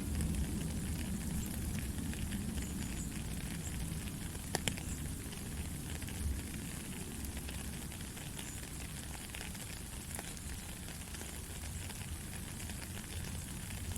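Steady rain: an even hiss with scattered sharp drop ticks over a low rumble.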